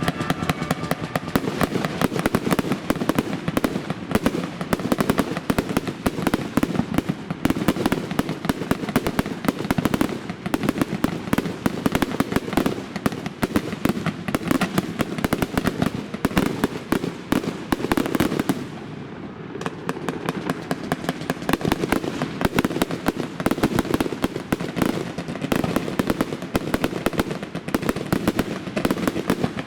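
Fireworks display: a dense barrage of rapid bangs and crackles, many shells bursting every second, with a brief lull a little past two-thirds of the way through.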